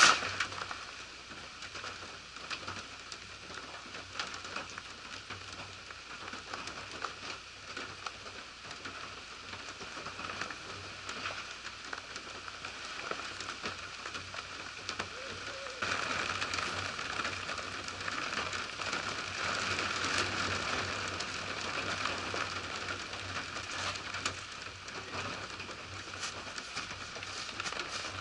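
Steady rain falling, with many separate drops ticking; it grows louder about halfway through.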